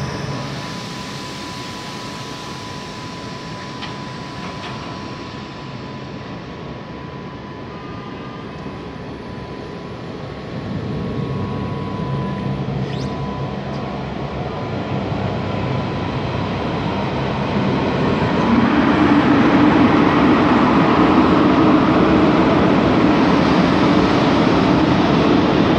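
A train moving through a railway station. A thin steady whine runs under the rolling noise through the first half. The rolling noise grows louder about ten seconds in and again at about two-thirds of the way through.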